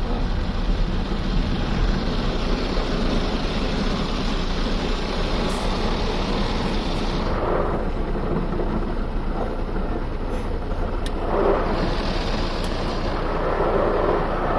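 Automatic car wash's rotating brushes scrubbing over the car, heard from inside the cabin: a steady rushing, swishing noise over a low machine hum, its character shifting about seven seconds in.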